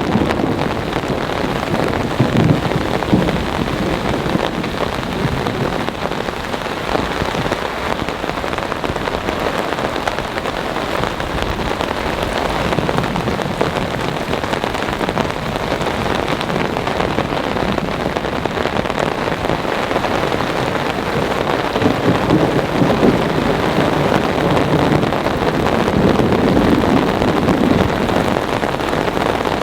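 Heavy rain falling steadily during a thunderstorm, with low rumbling thunder swelling near the end.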